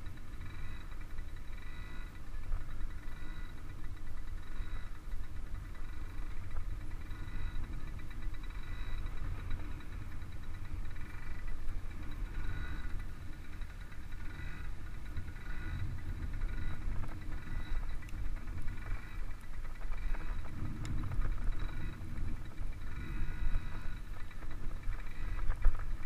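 Small child's dirt bike engine running at low, steady riding speed, swelling and easing slightly as the throttle is worked, over a constant low rumble.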